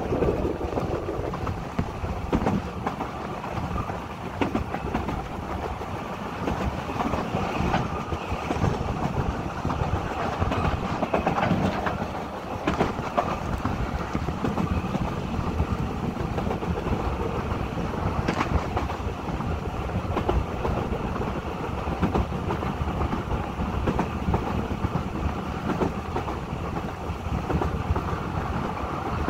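Narrow-gauge Welsh Highland Railway train running along the line: a continuous rumble of the carriages with occasional sharp clicks of the wheels over the rail joints.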